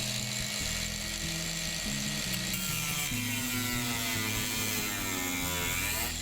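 Power drill running while copper boat rivets are drilled out, mixed with background music that has a low, stepping bass line.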